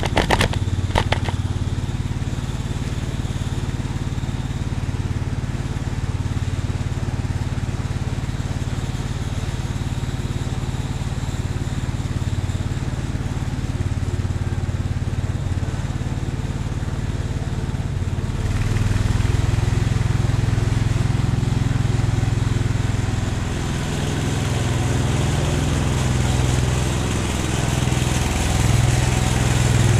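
Cub Cadet 149 garden tractor's single-cylinder Kohler engine running, with a few sharp clicks in the first second. About 18 seconds in it gets louder, and from about 24 seconds its pitch rises and falls as the load changes.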